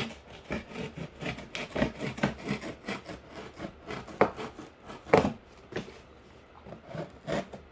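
Knife blade cutting through cardboard in quick, short scraping strokes, with two sharper, louder strokes about four and five seconds in and a brief lull a little after six seconds.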